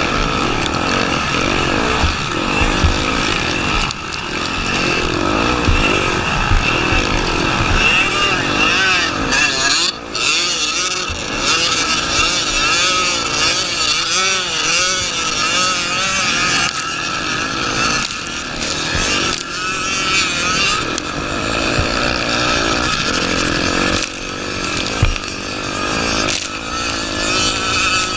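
Honda Tornado 250 dirt bike's single-cylinder four-stroke engine revving up and down repeatedly as it is ridden, with a few sharp knocks along the way.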